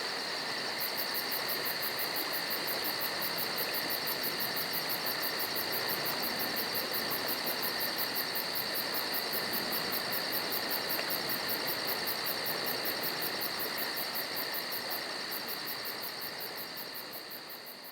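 Insects chirping steadily over a constant outdoor hiss, with a fast, even, very high pulsing running through it. It fades out near the end.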